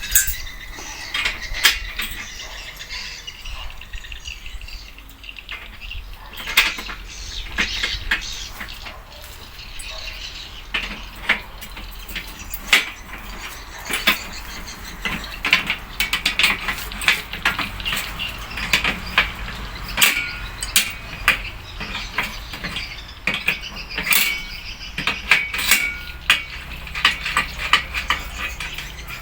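Irregular sharp clicks and light metallic clinks, like small hard parts or tools being handled. They come more often in the second half.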